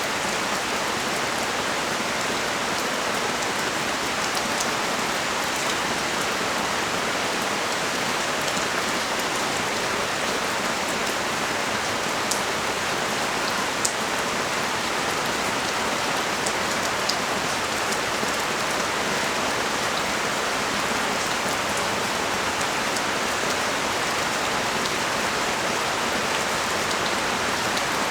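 Heavy rain pouring steadily, an even hiss of rain on surfaces with a few sharper drip ticks now and then.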